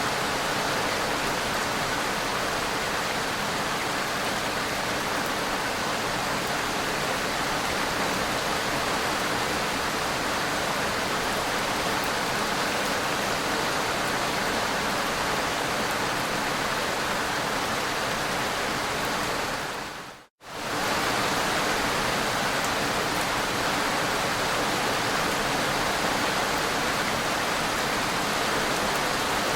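Heavy rain pouring steadily, a loud dense hiss with no let-up; it cuts out suddenly for a split second about two-thirds of the way through and resumes unchanged.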